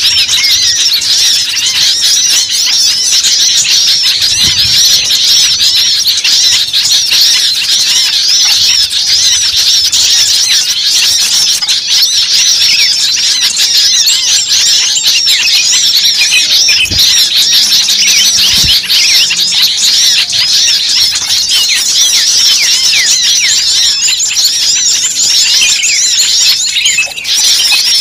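Dense chorus of many small birds chirping and twittering at once, rapid high calls overlapping without a break: a noisy mixed-flock recording of the kind played as a bird-trapping lure.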